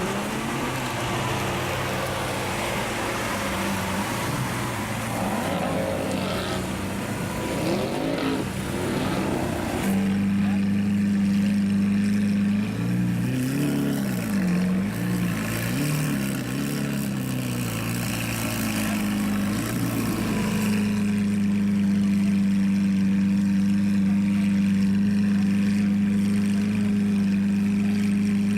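Sports car engine idling and revved with a few quick throttle blips, its pitch rising and falling, then settling to a steady idle for the last several seconds. The first third is noisier, with shifting engine pitches mixed in.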